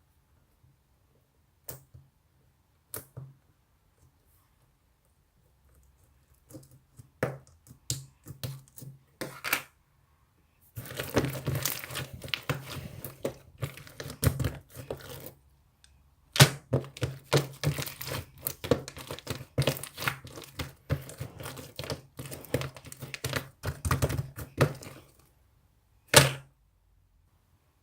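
Slime being squeezed, poked and folded by hand: a few scattered sticky clicks and pops at first, then two long runs of rapid, dense clicking and popping, and one sharp loud pop near the end.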